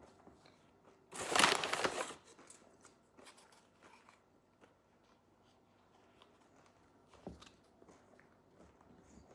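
A food wrapper crinkling for about a second, starting about a second in, followed by faint small clicks and rustles.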